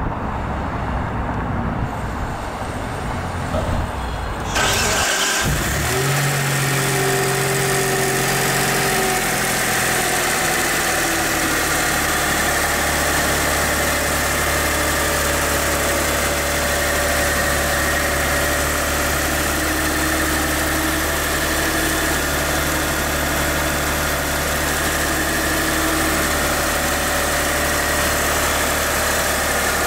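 For the first few seconds there is outdoor road noise and wind. Then, about four and a half seconds in, the sound of the Mitsubishi 3000GT SL's 3.0 L DOHC 24-valve V6 comes in suddenly, close to the open hood, and idles steadily. The idle settles slightly about ten seconds in.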